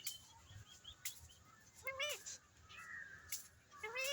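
Pet parrot squawking: a harsh call about two seconds in and another near the end, with fainter chattering between.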